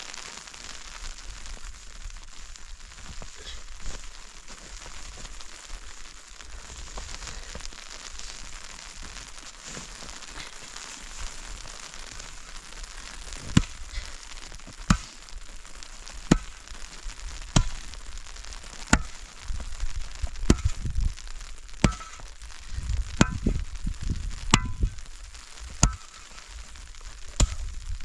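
A steady hiss with light crackling, joined about halfway by a regular knock, a sharp strike with a low thud roughly every second and a half.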